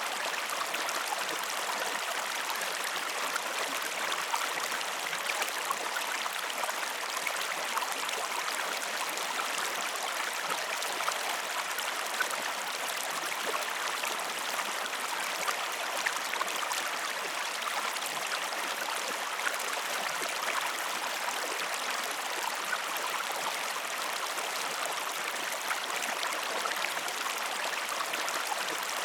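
Flowing river water: a steady, even rush with small splashes throughout.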